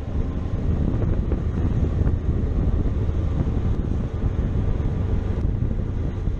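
Steady wind rushing over the microphone of a moving motorcycle, mixed with the bike's engine and road noise, heavy in the low end.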